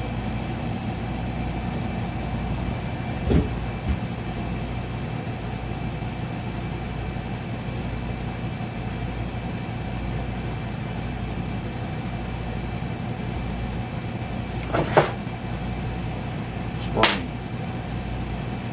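Steady low machine hum, with a few short knocks and clicks of small metal parts being handled as the spring is unscrewed from the check valve of a hydraulic bead breaker, a pair a few seconds in and two more near the end.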